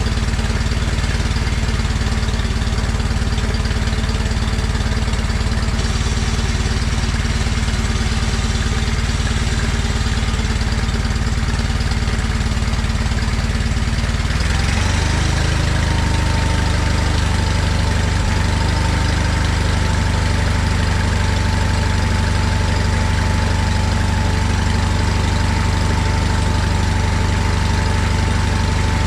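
John Deere 317 garden tractor's Kohler twin-cylinder engine running steadily after a fresh start following reassembly, then throttled up about halfway through and settling at a higher, steady speed.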